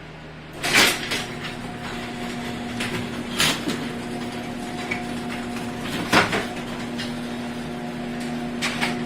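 Four sharp clunks and knocks spread over the stretch, with a steady hum underneath.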